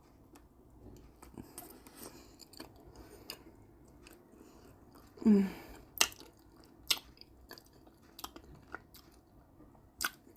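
Close-miked chewing of red caviar on a soft bun, with wet mouth clicks and lip smacks. A short falling hum comes about five seconds in.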